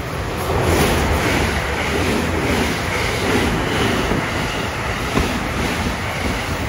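A twelve-car JR Special Rapid Service electric train passing, a steady rush of wheels on rails, with wind noise on the microphone.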